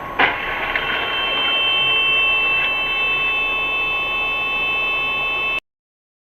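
A sudden crash impact about a quarter second in, followed by a steady high-pitched tone and a few smaller clicks, then the sound cuts off abruptly near the end.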